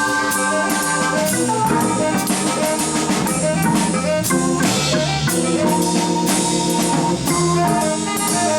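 Live small-group jazz: organ holding and changing chords over a moving bass line, with a drum kit playing steady strokes and cymbals.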